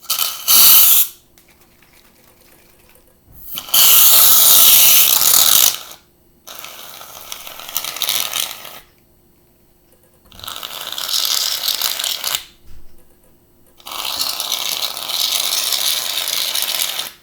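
Aerosol shaving-cream can hissing as foam is sprayed out, in five separate squirts: a brief one at the start, then four of about two seconds each with pauses between.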